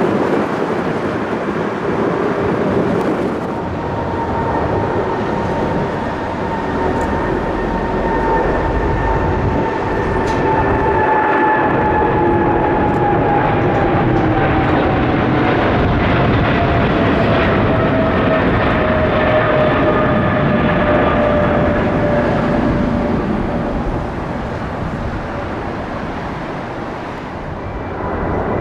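Jet airliner engines passing close by: a loud steady rush with a whine that falls slowly in pitch as the aircraft goes past.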